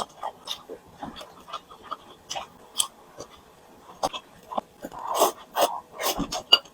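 Close-miked chewing with wet mouth clicks and smacks, in irregular crackly bursts several a second, louder for a moment about five seconds in.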